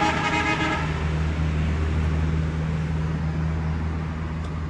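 Roadside traffic: a vehicle horn toot that cuts off under a second in, over the steady low rumble of a running engine.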